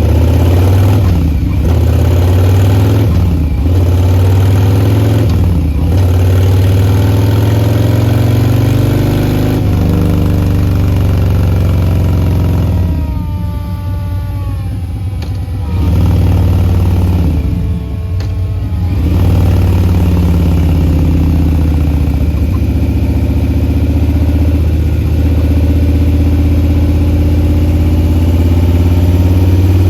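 Harley-Davidson Milwaukee-Eight 114 V-twin exhausting through a Bassani Short Ripper 2-into-1 pipe, idling and being revved. Several quick throttle blips come early, then a longer rev whose pitch falls back twice around the middle. It settles into a steady idle for the rest.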